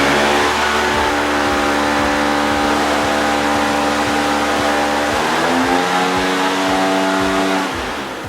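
Engine-driven blower running steadily as artificial wind against a hovering DJI Mavic 2 Pro drone, with several steady tones whose pitch shifts about five seconds in. It eases off near the end.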